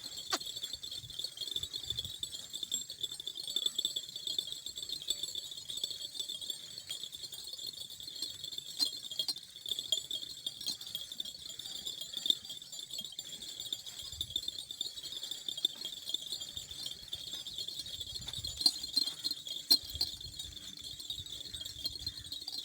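Crickets trilling steadily in a high continuous chorus, with a few faint clicks and knocks scattered through.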